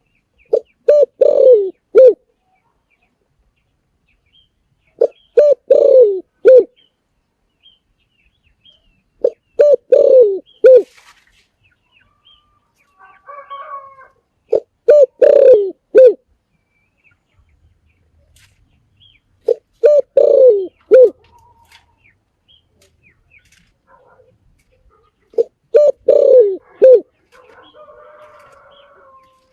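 A spotted dove cooing. It repeats the same phrase six times, about every five seconds, each a short run of low coos lasting about a second and a half. Fainter, softer calls come between the phrases near the middle and near the end.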